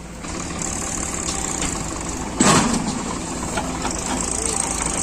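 Heavy diesel machinery running steadily as mud is loaded, with one sudden loud thump about halfway through.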